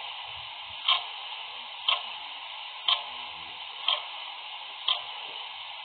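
Clock ticking steadily, one tick a second, over a faint steady hiss.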